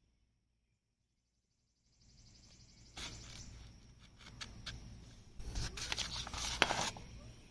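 Handling noise of kit parts and packing: rustling with scattered sharp clicks and knocks, starting about two seconds in and getting busier toward the end.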